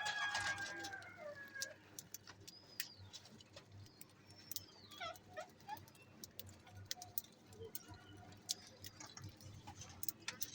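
Lovebirds chirping in short squeaky calls and gliding whistles, busiest in the first second and again a few seconds in, with frequent sharp clicks and taps throughout.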